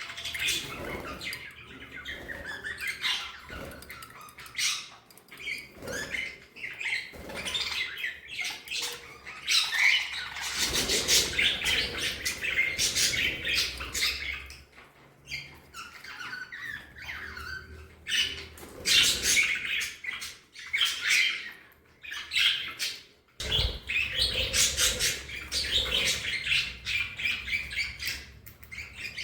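Several budgerigars chirping and chattering nonstop, with fast, overlapping warbles and short squawks. A low rumble sits underneath twice, about a third of the way in and again near the end.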